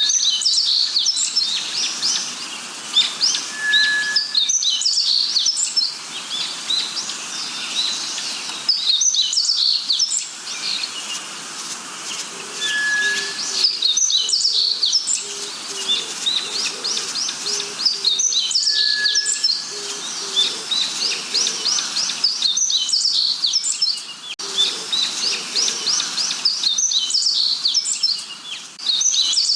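Chorus of several forest birds calling at once: a dense run of quick, high chirps and trills. A short pure whistle comes every few seconds, and in the middle stretch there are soft, low repeated notes.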